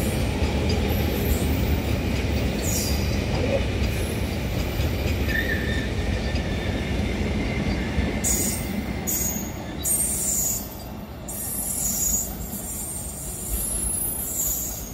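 Container freight train's wagons rolling past at speed: a steady rumble of wheels on the rails, joined in the second half by bursts of high-pitched wheel squeal. The rumble eases as the tail of the train passes near the end.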